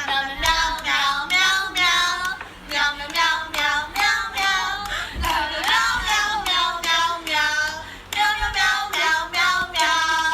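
A high-pitched voice in quick, short repeated notes that bend in pitch, with hardly a pause.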